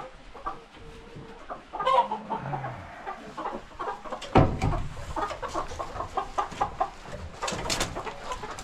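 Chickens clucking in a coop, short scattered calls, with small knocks and clatter around them and one louder thump about halfway through.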